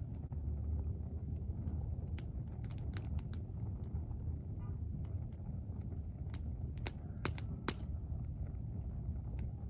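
Wood campfire crackling, with irregular sharp snaps and pops, a few clustered together about two to three seconds in and again near seven seconds, over a steady low rumble.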